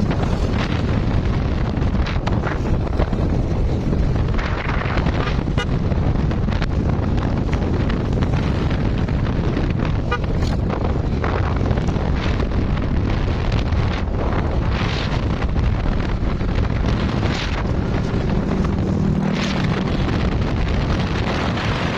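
Steady wind buffeting on the microphone over the low rumble of a moving vehicle.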